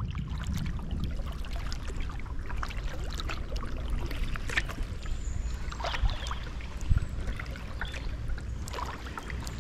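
Kayak paddle strokes splashing and dripping in moving river water, a scatter of short splashes over a steady low rumble.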